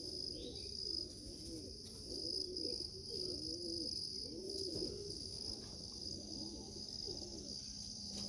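Racing pigeons cooing: many low, rising-and-falling coos overlapping one another throughout, over a steady high-pitched insect drone.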